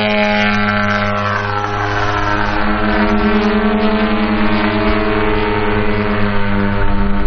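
Propeller engines of two radio-controlled Extra 330 SC aerobatic model planes running in flight. The drone is steady, with slow shifts in pitch as they manoeuvre and the two engine notes crossing.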